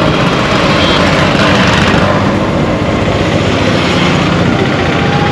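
Heavy road traffic: many vehicle engines and tyre noise blending into a steady, loud wash.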